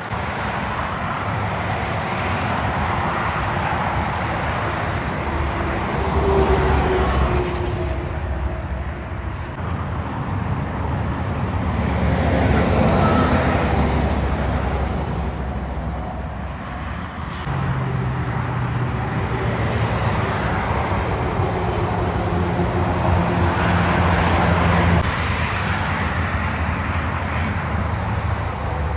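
Road traffic with heavy diesel trucks driving past one after another. Engine and tyre noise swells and fades with each pass.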